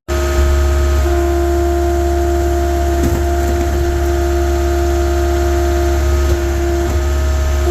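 A vehicle engine running steadily: a loud low rumble with a steady hum over it.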